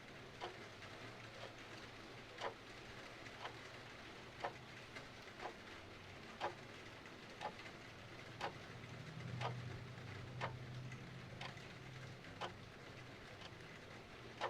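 A clock ticking about once a second, every other tick stronger, over a steady hiss of rain. A low rumble swells for a few seconds past the middle.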